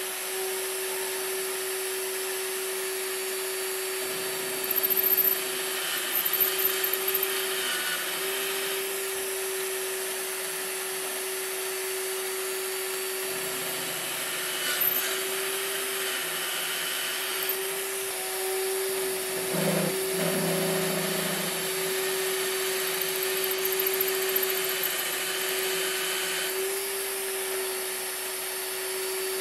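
A small electric power tool running at a steady pitch while its wheel or pad rubs against a steel machinist square, with a few louder scrapes about five to seven seconds in.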